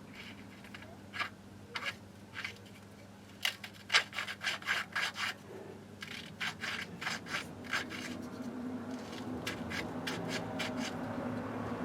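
Quick runs of short rubbing, scraping strokes, about four a second, with a low hiss building near the end.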